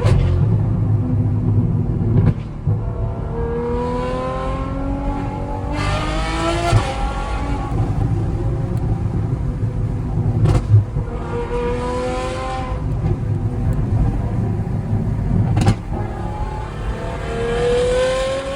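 Straight-piped Ferrari V12 exhaust pulling hard three times, its pitch climbing through the revs, then dropping back, over a steady low rumble. A few sharp cracks come between the pulls.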